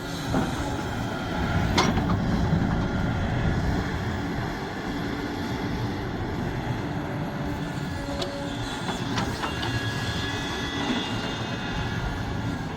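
Sumitomo SH370LHD-6 excavator's diesel engine running steadily, with thin high squeals and a few sharp metal clanks, about two seconds in and twice more near the eight- and nine-second marks.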